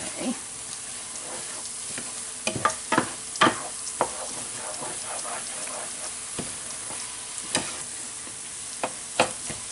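Mushrooms, onions and flour sizzling steadily in a hot frying pan of butter and oil as they are stirred, the spoon knocking and scraping against the pan several times, most often a few seconds in. The flour is being cooked down to thicken a sauce.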